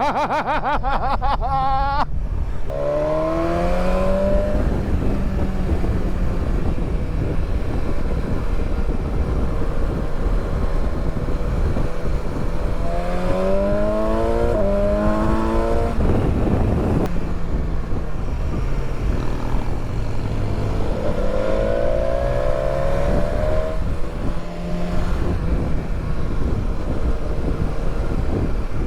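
Motorcycle engine pulling hard, rising in pitch as it accelerates several times, over steady wind rush at riding speed.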